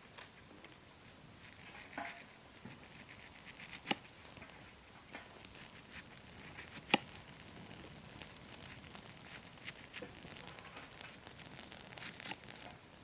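Fire crackling in a washing-machine drum used as a grill, with a steady faint hiss, scattered small crackles and two sharp pops, the louder one about seven seconds in.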